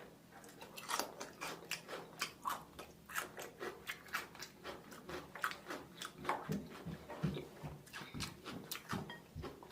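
A person chewing seafood-boil food: a steady run of short, wet mouth clicks and smacks, a few each second.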